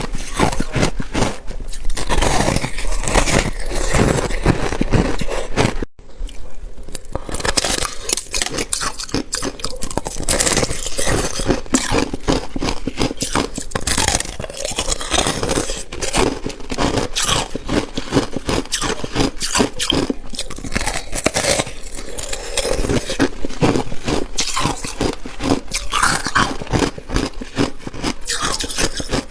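Close-up crunching and scraping of freezer frost being bitten and chewed, a dense run of crisp crackles with a brief break about six seconds in.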